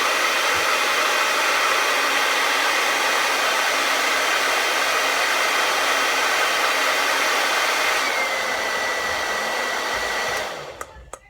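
Hand-held blow dryer running on its high setting: a steady loud rush of air with a high whine. About eight seconds in, the whine drops slightly in pitch, and the dryer switches off near the end.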